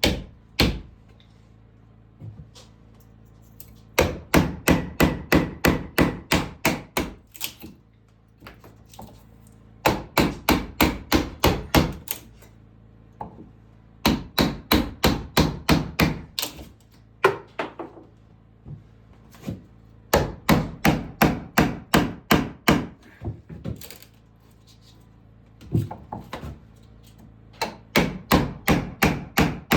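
Hammer striking wood in quick runs of a dozen or so blows, about five a second, with short pauses between runs, as when driving nails.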